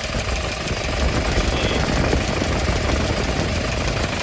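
Hyundai Porter II truck's diesel engine idling steadily, a low even rumble.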